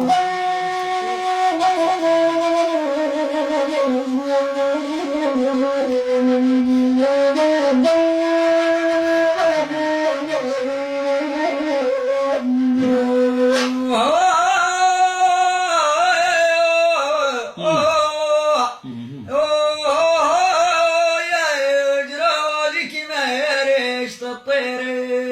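A flute-like wind instrument playing an ornamented melody of held notes over a steady low drone, with more wavering, bending notes in the second half, as an instrumental passage between sung verses of Bedouin song.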